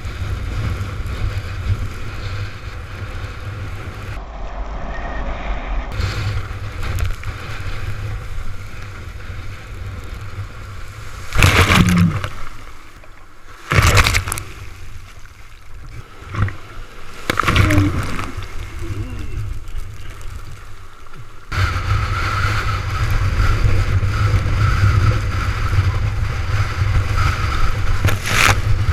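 Storm wind buffeting the microphone over rushing, splashing sea water while windsurfing, with two loud sudden splashes about twelve and fourteen seconds in. The rush grows louder and steadier in the last third.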